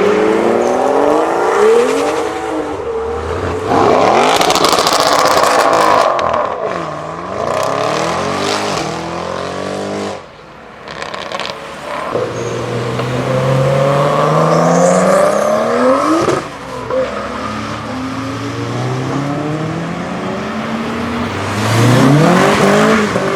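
Modified cars accelerating away one after another, their engines revving hard, the pitch climbing and falling back with each gear change.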